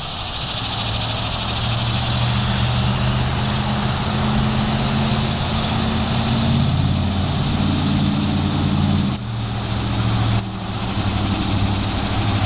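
A motor vehicle's engine idling with a steady low hum, over the continuous high buzzing of annual cicadas calling in the trees.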